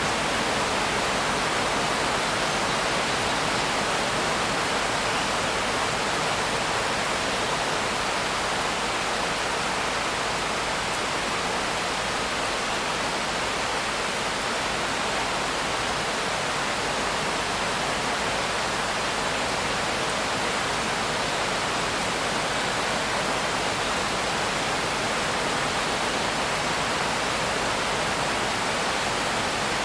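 Steady rain, an even continuous hiss with no separate drops or other events standing out.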